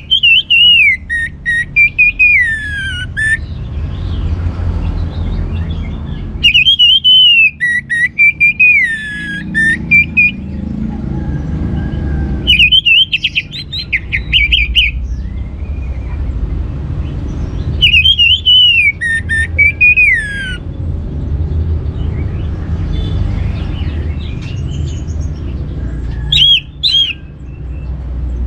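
Orange-headed thrush singing loud phrases of quick, sliding whistled notes, one phrase every five or six seconds, over a steady low background rumble.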